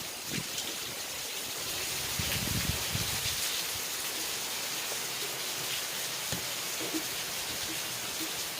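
Steady rain falling, a dense even hiss, with wind gusting low underneath now and then and a few faint scattered drips.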